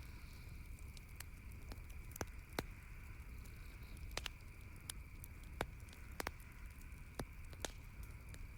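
Campfire crackling: irregular sharp pops and snaps, a dozen or so, over a steady faint high tone and a low background rumble.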